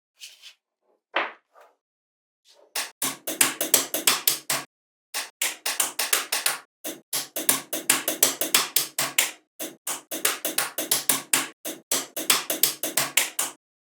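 Rapid runs of sharp taps or knocks, about seven a second, in several bursts with short pauses between them.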